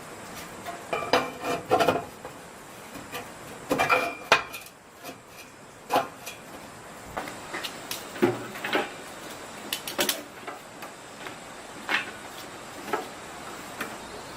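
Metal tools and parts being handled: irregular clanks and knocks, bunched together about a second and again about four seconds in, then single knocks every second or so.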